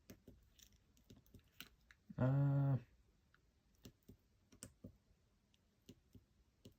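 Small, irregular clicks from an iPod nano 5th gen's click wheel being pressed and worked while it is tested after a click-wheel swap. A short wordless hum from the person about two seconds in.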